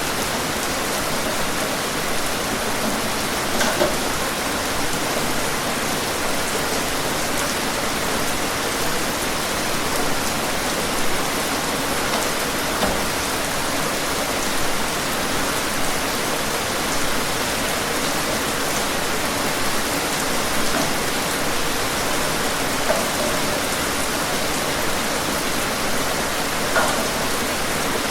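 Steady rain falling, an even hiss with scattered louder droplet ticks.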